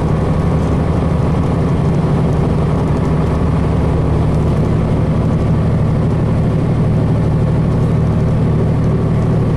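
Cummins ISC six-cylinder diesel engine of a 2002 Blue Bird transit bus running steadily, heard from inside the bus.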